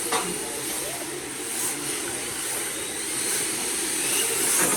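Electric RC drift cars running on the track: a steady high whine from the motors with tyre hiss. A sharp click comes just after the start and another near the end.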